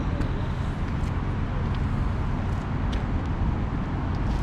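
Steady road traffic noise with a low rumble, cars passing on a nearby street.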